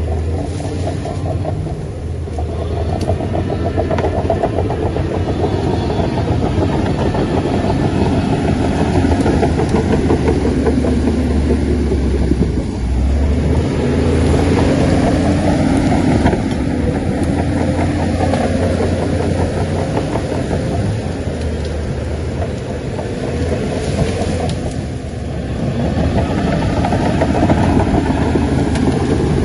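Shantui bulldozer's diesel engine running under load, a steady low rumble whose pitch sags and rises a few times as the machine works.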